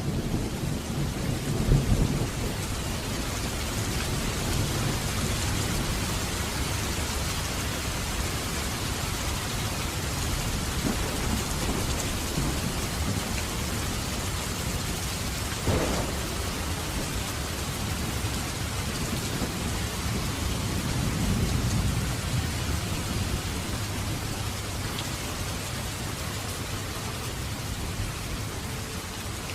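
Heavy rain falling steadily, with low thunder rumbling in the background, strongest near the start and again about two-thirds of the way through. There is one short, sharp thump about halfway.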